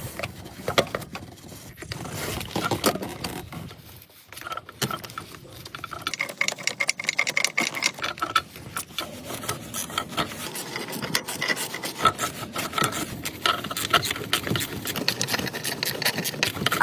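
Hand tools working on the engine's thermostat housing: rapid, irregular metallic clicking and scraping, with short pauses.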